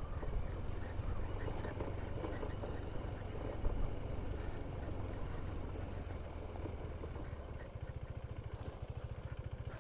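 KTM 390 Duke's single-cylinder engine running at low speed, settling about 8 seconds in into an even, pulsing idle. A small knock sounds briefly near the middle.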